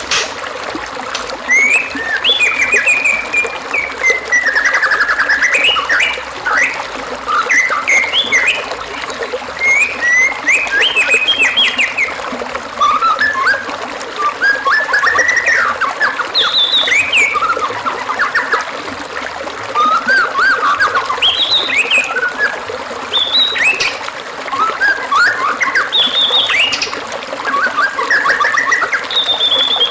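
A white-rumped shama singing a rich, varied song of short whistled phrases that slide up and down in pitch, with mimicked notes, over a steady trickle of running water.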